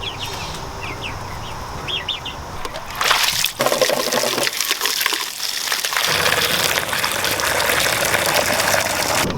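Chicks peeping softly, then about three seconds in a loud rush of water from a garden hose starts, changing as the stream shifts, and stops abruptly near the end.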